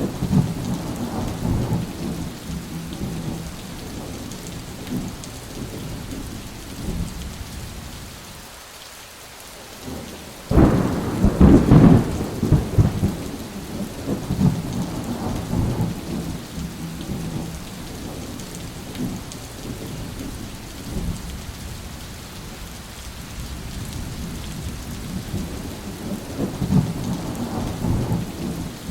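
Steady rain with rolling thunder rumbling on and off. About ten seconds in, after a brief lull, a sudden loud thunderclap breaks and rumbles for a couple of seconds before settling back into distant rolls.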